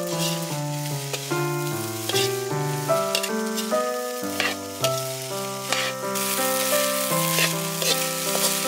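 Egg fried rice sizzling in a wok while a metal ladle stirs it, with several sharp scrapes of the ladle against the pan. The sizzle grows brighter in the last few seconds. Background music of steady melodic notes plays throughout.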